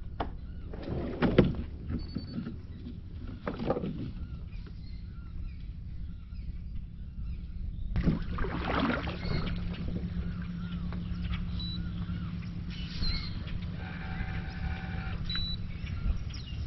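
Kayak moving on open water: water splashing and rushing at the hull in several swells over a steady low rumble, with a steady low hum joining about eight seconds in.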